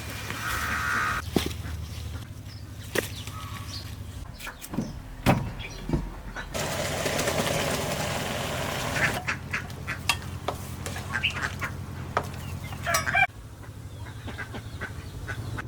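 Farmyard ducks quacking a few times among scattered sharp clicks and knocks, with a stretch of rushing hiss in the middle.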